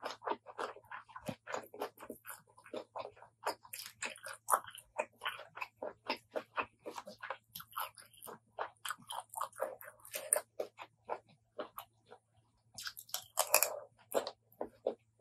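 Close-miked chewing and biting of a spicy apple snail salad: rapid, wet mouth clicks and crunches with no pause, and a denser, louder burst near the end.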